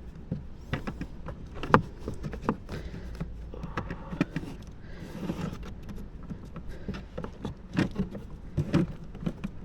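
Cabin air filter element being slid into its plastic housing and clipped in: a string of sharp plastic clicks and knocks with some rustling, the loudest click a little under two seconds in and another cluster near the end, over a low steady hum.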